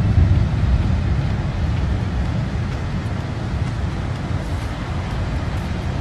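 A steady low rumble with a fainter hiss above it, and no voices.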